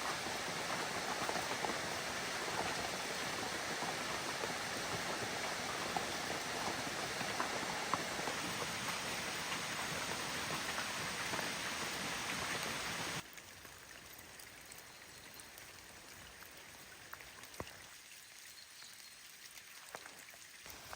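Steady rain falling. About two-thirds of the way through, it cuts abruptly to a much quieter rain with scattered single drips.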